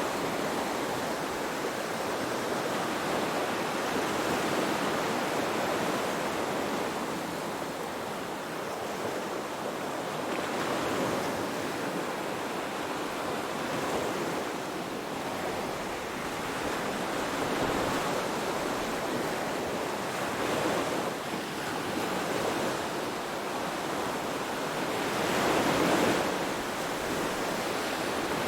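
Waves washing in: a continuous rush of water that swells and eases every few seconds, with the strongest surge near the end.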